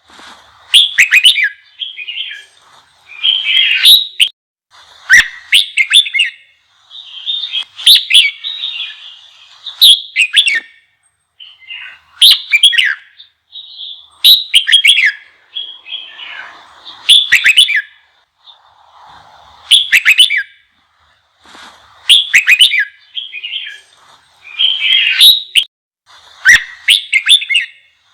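Red-whiskered bulbul singing excited, fired-up song in short, quick phrases, repeated about every one to two seconds with brief pauses between them.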